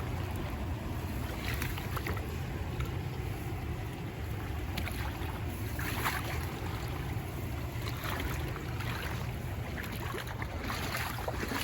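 Steady rush of a flooded creek, with wind rumbling on the microphone and a few faint clicks.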